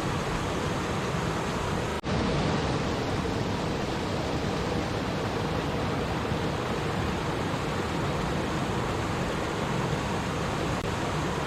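Steady rushing of a flowing stream, an even wash of water noise, which cuts out for an instant about two seconds in.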